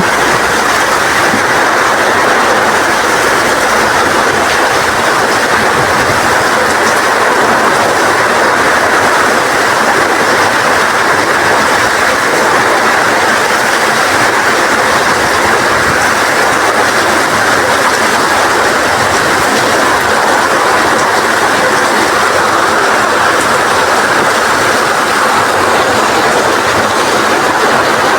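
Rain falling in strong wind, a loud steady rush of noise without breaks or separate drops standing out.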